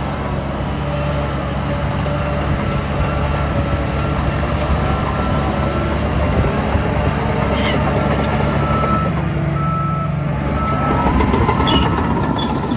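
Heavy diesel earthmoving machinery running steadily under load. A reversing alarm beeps in short repeated tones for a couple of seconds past the middle, and the engine revs up near the end.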